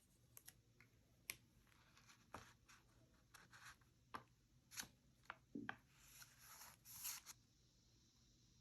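Faint paper-crafting handling sounds: paper rustling and brushing in short strokes, with scattered light taps and clicks. The longest rustle comes in the second half.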